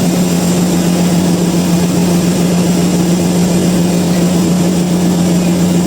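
Sawmill machinery running steadily with a constant low hum and no change in pitch or load.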